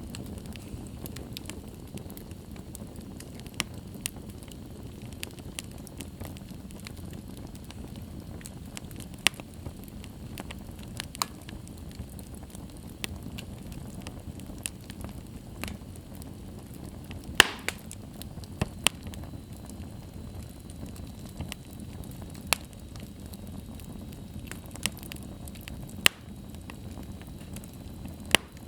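Wood fire burning in a fireplace: a steady low roar of flames with irregular sharp crackles and pops, a few of them loud.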